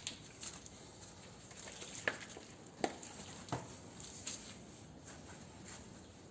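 A few light clicks and knocks from hand work, spaced irregularly, with sharper ones about two, three and three and a half seconds in, over faint rustling.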